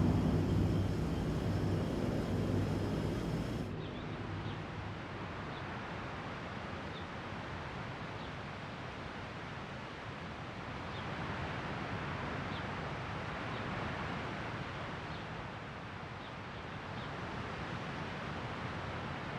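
An engine's low, steady drone fades over the first few seconds. After an abrupt cut, a steady outdoor hiss follows, with a few faint, brief high chirps scattered through it.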